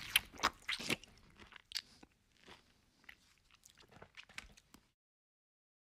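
Close-up mouth sounds of a man biting into and chewing a curry-coated hard-boiled egg with rice: a burst of loud wet clicks and smacks in the first second, then softer, irregular chewing that stops abruptly about five seconds in.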